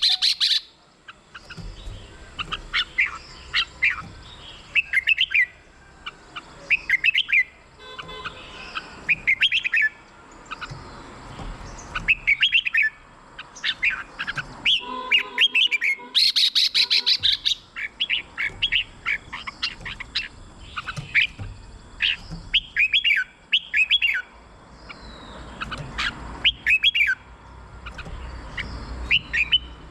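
Red-whiskered bulbul singing: short warbled phrases repeated every second or two, with a rapid run of high notes about halfway through.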